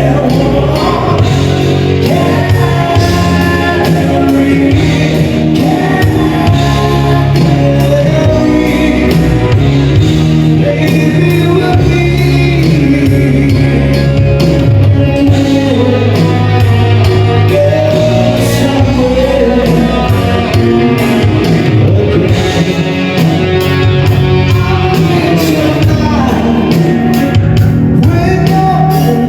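Live rock band playing a song with a singer, loud and steady, with the reverberation of a large hall.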